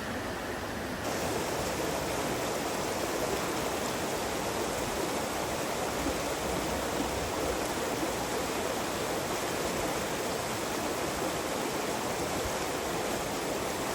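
Steady rush of running water, with no breaks or strokes, growing brighter about a second in.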